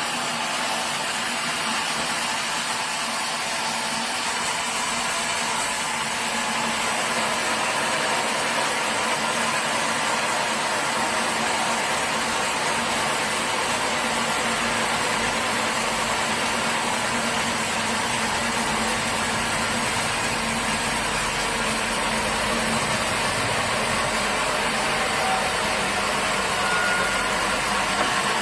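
Sawmill machinery running steadily: an engine or motor hum under a broad, even mechanical noise that keeps a constant level throughout.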